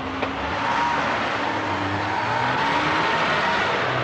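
Car engine revving hard as the car accelerates away at speed, its pitch wavering as it pulls through the gears.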